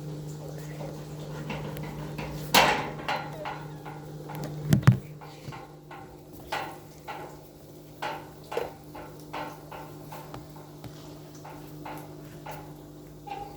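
Knocks and clatter of hard objects being handled over a steady low hum: one loud knock about two and a half seconds in, a sharp double knock near five seconds, then a run of lighter clicks and taps.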